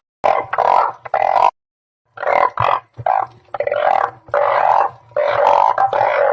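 Recorded chorus of balloon frogs (Glyphoglossus molossus) calling, short calls following one another several times a second and overlapping. The sound drops to complete silence for about half a second a moment in, then the calls resume.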